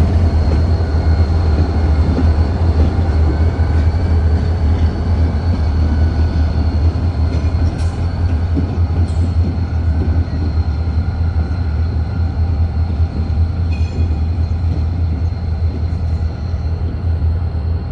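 Diesel freight train locomotives and cars running: a steady, loud low engine drone with rolling rail and wheel noise.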